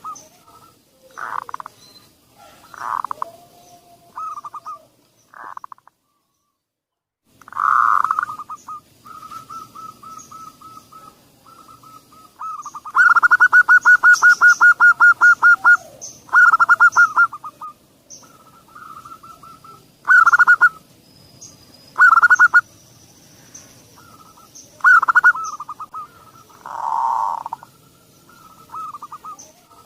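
Zebra doves (perkutut) singing: runs of soft staccato coos that break into rapid rolling trills, with the busiest trill in the middle. There is a brief dead-silent gap about six seconds in.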